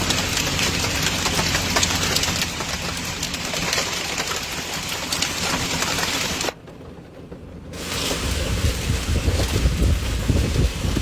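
Hail and heavy rain pelting down, a dense roar peppered with many sharp hits. It cuts out abruptly for about a second two-thirds of the way through, then comes back with a deeper drumming rumble.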